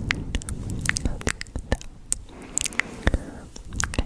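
Close-miked ASMR mouth sounds: an irregular string of sharp clicks and chewing-like smacks over a soft low rustle.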